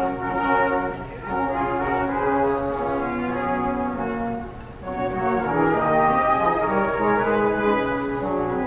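Brass band music: several brass instruments playing a melody in long held notes.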